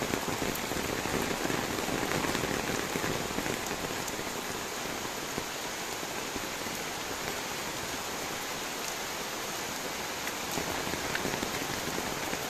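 Steady rainfall: a dense, even hiss of many raindrops, easing slightly after the first few seconds.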